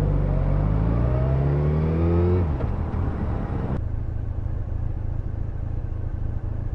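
Yamaha FZ1N motorcycle's inline-four engine accelerating, its pitch rising for about two and a half seconds. The rising note then stops abruptly and a low steady rumble remains.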